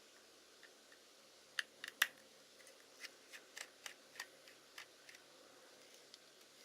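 About a dozen light, sharp clicks and taps, loudest about two seconds in and dying away by five seconds, from small tools and camera parts being handled while working on a Hasselblad Winder CW.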